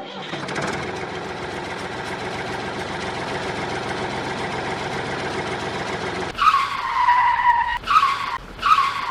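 A small machine's steady whirring, then from about six seconds in a high whine that stops and starts twice, like a small electric motor running up.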